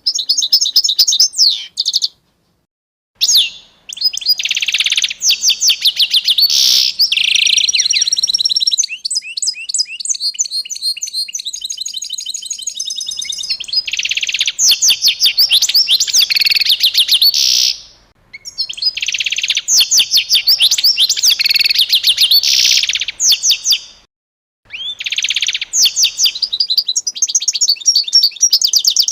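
Songbirds singing in long runs of fast, rapidly repeated high chirps and trills, broken by a few brief silent gaps.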